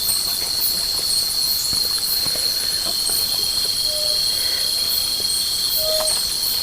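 Night insect chorus of crickets in tropical forest: a steady high-pitched trilling that never lets up, with two short low notes from another animal partway through and near the end.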